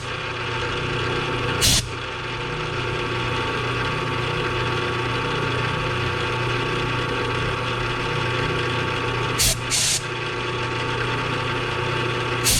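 Machine-tool motor running steadily while cutting a slot in a small steel T-nut, a constant hum with a high whine over it. Brief loud hissing bursts break in twice, once near the start and again about ten seconds in.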